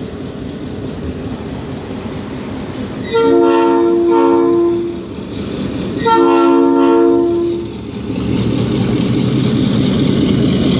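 Train horn sounding two blasts of several notes at once, the first a few seconds in and the second about three seconds later, each lasting under two seconds. A rumble of the approaching train grows louder near the end.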